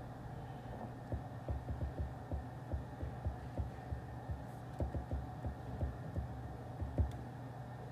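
Soft, muffled tapping on a desk, a quick irregular run of low thumps about three a second with a louder knock near the end, over a steady low room hum.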